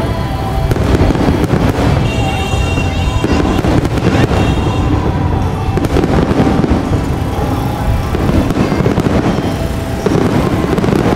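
Aerial fireworks display: a continuous dense run of shell bursts and crackling, recorded on a phone microphone.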